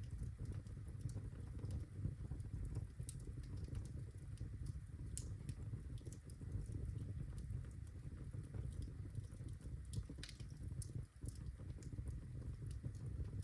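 Birchwood fire burning in a fireplace: scattered sharp crackles and pops over a steady low rumble of the flames.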